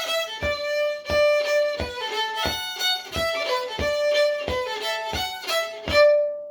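Old-time fiddle playing a tune in an even rhythm with crisp bowed note attacks. It comes to a close about six seconds in on a held note that rings and fades.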